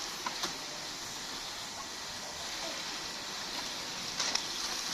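Water running or spraying steadily, with a few short clicks near the start and again about four seconds in.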